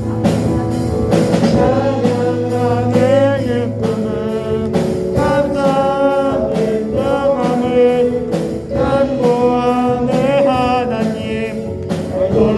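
A Korean gospel song: a sung melody line over steady instrumental accompaniment.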